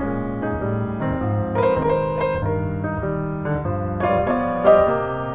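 Background piano music: a steady run of played notes over a bass line.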